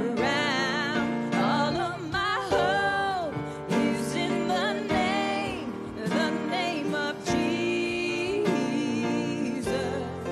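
Contemporary worship band playing, with a singer holding and sliding between long wavering notes over the accompaniment.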